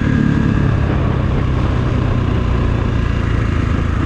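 Kawasaki KX450 dirt bike's single-cylinder four-stroke engine running at a steady speed under way.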